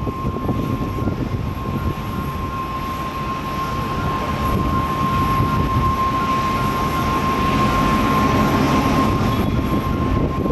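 Boeing 777-300ER's GE90 jet engines running loud and steady: a dense rumble with a steady high whine on top, swelling a little midway and easing near the end.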